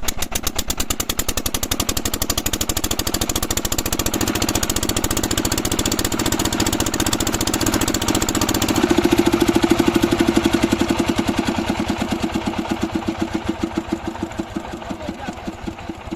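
8 hp Kirloskar single-cylinder diesel pumpset engine running with a steady beat. It quickens at first as it picks up speed, is loudest around the middle, then slows so that each separate firing beat can be heard near the end.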